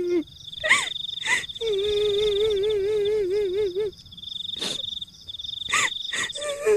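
Horror sound-effect mix: a woman's high, wavering crying wail, the kuntilanak ghost cry, held for a couple of seconds over a steady high insect trill. It is broken by a few short, sharp dog barks.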